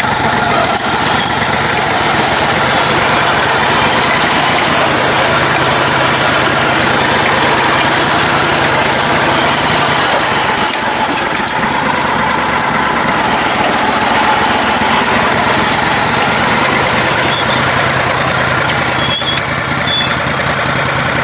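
Engine of a lifted, modified riding lawn mower running steadily as it drives along an off-road trail.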